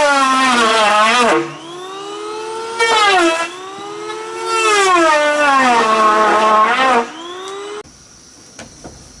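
Chainsaw cutting wood: its engine pitch sags under load and climbs back when free, twice at length with a short rev between, then it stops about 8 seconds in.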